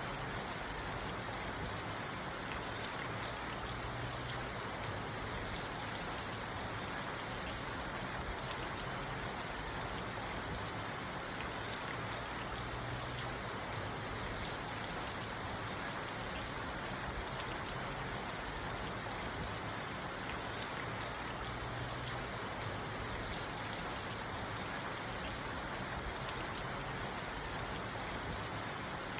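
Steady rain falling on a parked car, heard from inside the cabin as an even patter on the roof and windows.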